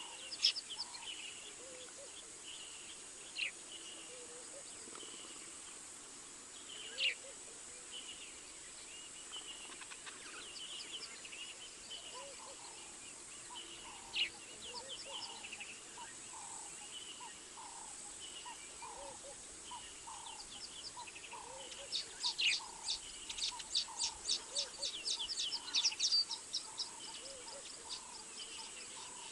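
Wild birds calling outdoors: sharp single chirps scattered throughout and a repeated lower call, then a dense run of rapid chirping for several seconds near the end, over a steady high-pitched hum.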